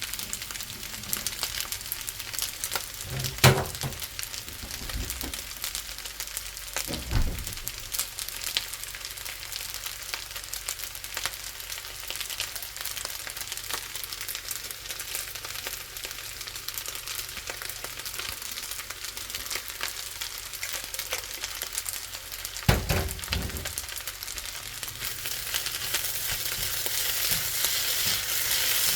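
Vegetable fried rice with sausage frying in a pan: a steady sizzle with fine crackling. Three louder knocks come about 3, 7 and 23 seconds in, and the sizzle grows louder near the end.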